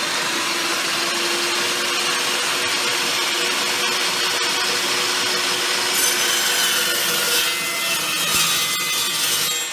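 Electric chop saw running and cutting through steel stock, the blade biting steadily with a harsher, brighter hiss for the last few seconds of the cut.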